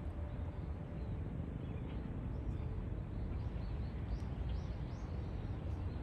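Steady low outdoor rumble, with a few faint, high, short bird chirps about four to five seconds in.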